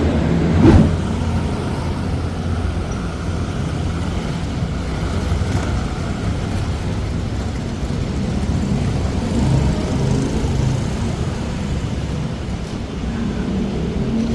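Steady low vehicle engine rumble with passing traffic noise, and one sharp knock a little under a second in.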